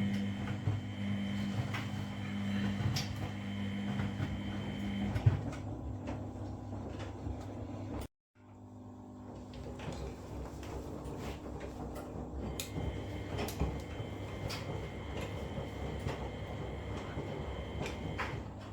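Washing machine running its wash cycle: the drum turning with a motor hum, and laundry and water tumbling with scattered clicks and knocks. The sound cuts out completely for a moment about eight seconds in, then the machine runs on.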